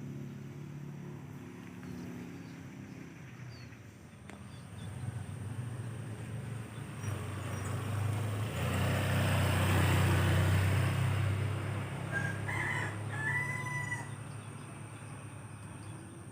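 A low vehicle rumble swells for a few seconds and then fades away, the loudest thing here. Near the end a rooster crows briefly.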